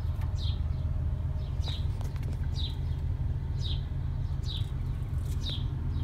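A bird repeating a short, falling high chirp about once a second, over a steady low hum.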